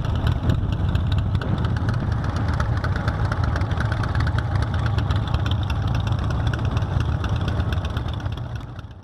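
Bigdog motorcycle's V-twin engine running steadily, fading out near the end.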